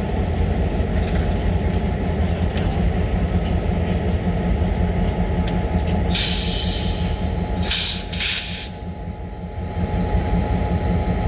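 Freight train of diesel locomotives and cars rumbling steadily on the rails. About six seconds in comes a loud hiss lasting about a second, then two short hisses.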